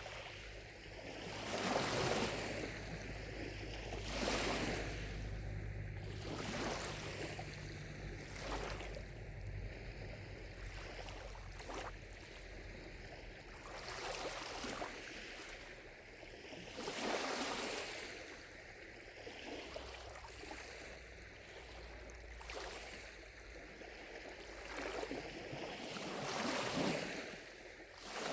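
Small lake waves lapping and splashing against the shore, a soft surge every few seconds.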